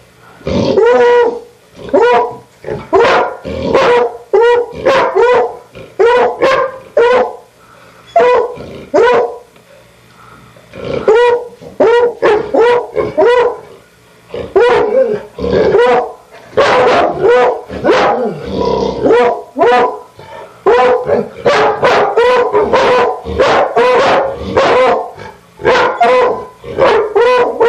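Dogs barking repeatedly, pitched barks coming one or two a second with a few short pauses.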